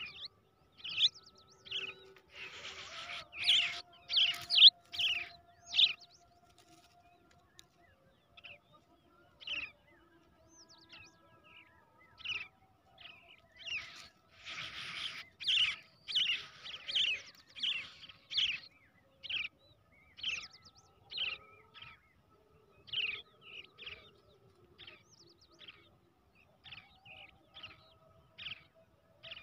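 Brown shrike chicks calling: short high chirps repeated about once a second, with two louder stretches of rapid, raspy begging calls, a few seconds in and again around the middle.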